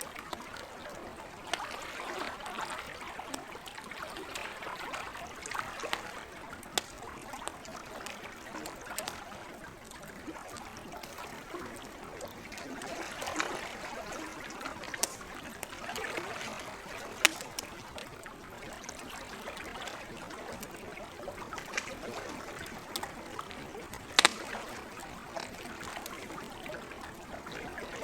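Campfire crackling, with scattered sharp pops and snaps, the loudest two about two-thirds and six-sevenths of the way through. Underneath is lake water gently lapping and trickling, a steady wash that swells and eases.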